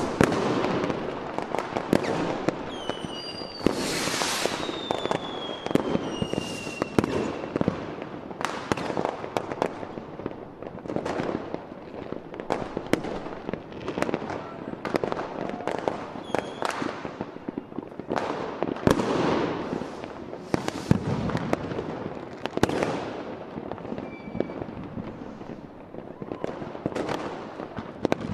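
Fireworks display: aerial shells bursting in a steady run of bangs and crackles, with a few whistles falling in pitch a few seconds in.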